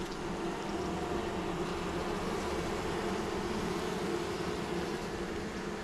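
Steady hum of a honeybee colony around an opened hive during a frame inspection. The colony has been without a queen for some time.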